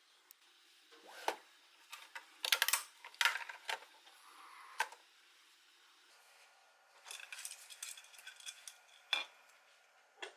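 Small hard objects clicking and clattering against each other and a hard surface. There are single sharp knocks, a quick burst of clatter a few seconds in, and a run of light rattling later on.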